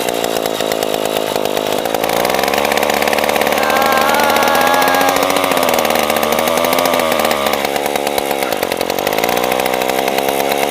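TVS XL moped engine mounted on a bicycle, running loudly after a hand-kick start; its speed picks up about two seconds in and then rises and falls several times as the throttle is worked.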